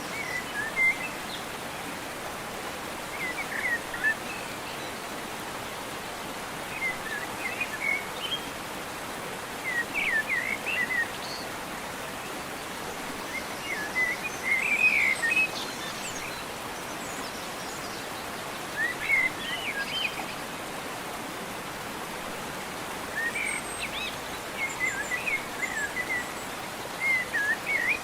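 Steady rush of river water, with a songbird singing short chirping phrases over it every three to four seconds.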